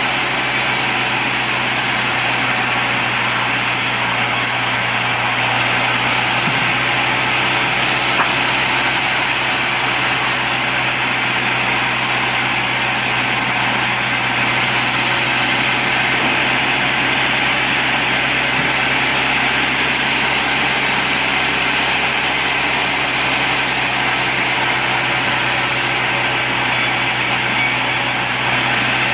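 Sawmill band saw running steadily with an even, unbroken machine noise, probably while sawing teak logs.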